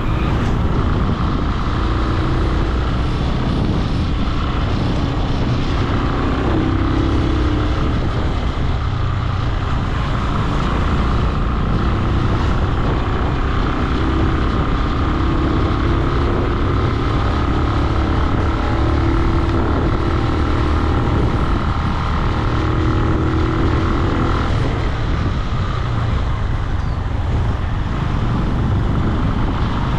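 Benelli 150i motorcycle engine running steadily under way, its note rising and falling a little, over a heavy low rumble.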